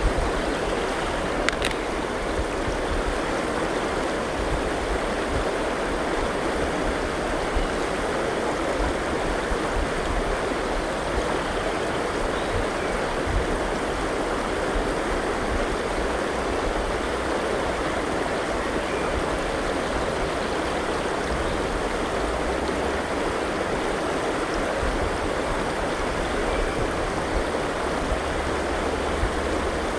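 Forest river flowing steadily, an even, unbroken sound of moving water.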